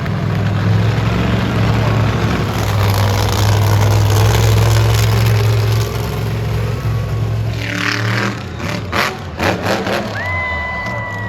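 Monster truck engine running loud and steady with music playing over it. The engine sound drops away about two-thirds of the way through, and short sharp sounds follow near the end.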